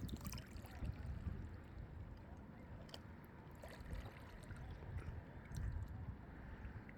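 Calm sea water gently lapping and sloshing, over a low, uneven rumble, with a few faint clicks.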